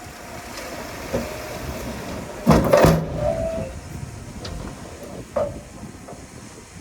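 Heavy earthmoving machinery working, a steady mechanical noise with a loud rasping burst about two and a half seconds in, a brief tone just after it, and two sharp knocks later.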